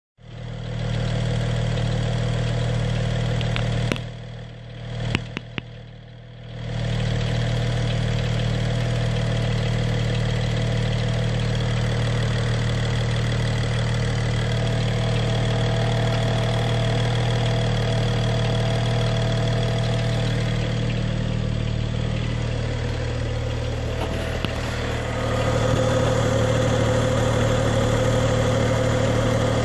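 BMW 335xi's turbocharged inline-six idling steadily with the clicking noise its owner is chasing, still there after the throttle body vent valve, breather line and VANOS system were replaced. The sound drops away for about two seconds a few seconds in.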